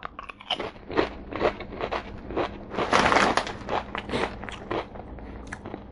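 Crisp potato chip crunching as it is chewed, in short crunches about two a second. About three seconds in comes a louder rustle of the chip bag, as a hand goes into it.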